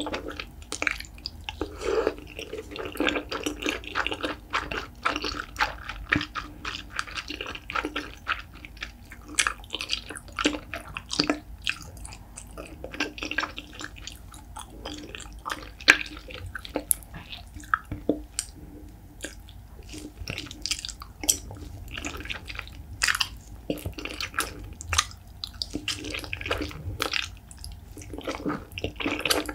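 Close-miked eating sounds of wide, flat noodles in a thick spicy sauce: the noodles sucked in at the start, then wet, sticky chewing with many sharp lip smacks and clicks.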